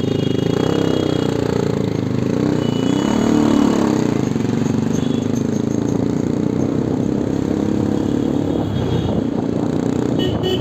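Bajaj Pulsar NS200's single-cylinder engine running as the bike pulls away from a stop in traffic and picks up speed, with a rise in engine pitch about three seconds in.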